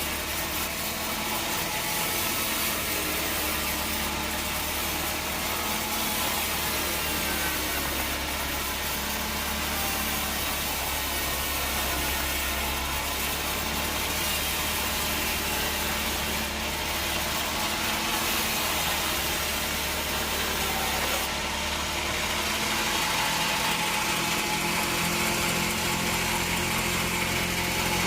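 Bandsaw sawmill running, its blade cutting through a log with a steady mechanical drone; the low motor note shifts about 22 seconds in.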